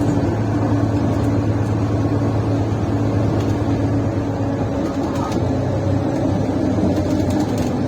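Mercedes-Benz Citaro C1 Ü bus engine running steadily while the bus is under way, heard from inside the passenger cabin, with the exhaust defective. The low hum shifts slightly about five seconds in, and a few faint clicks can be heard.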